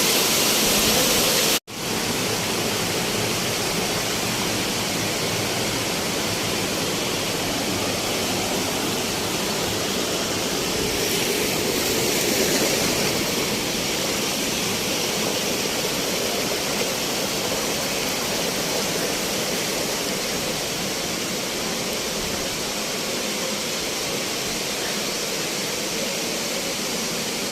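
Waterfall's falling water making a steady, even rush. It drops out for an instant about a second and a half in, then carries on unchanged.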